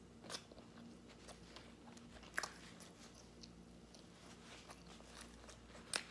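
Faint chewing of a mouthful of sandwich, with a few sharp mouth clicks, the loudest about two and a half seconds in and near the end.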